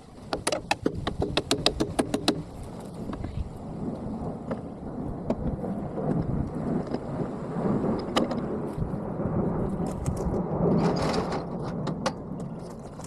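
Hand-tool work on a backhoe boom cylinder, sped up four times: a quick run of sharp knocks in the first couple of seconds, then clattering and handling noise with scattered knocks.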